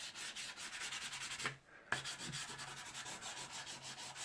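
Soft pastel stick scratching across the rough side of Canson Mi-Teintes paper in quick, repeated back-and-forth strokes, with a short pause about a second and a half in before the strokes resume.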